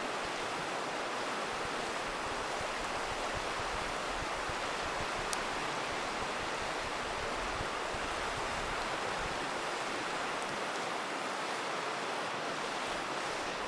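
Steady rushing of a river, with a few sharp pops from a wood campfire crackling. The clearest pop comes about five seconds in.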